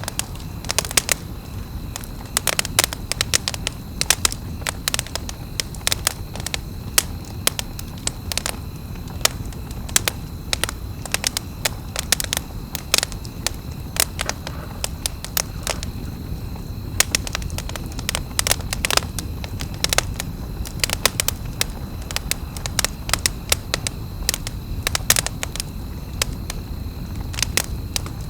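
Wood campfire crackling: many sharp, irregular pops and snaps, some in quick clusters, over a steady low rumble. A faint steady high tone runs beneath.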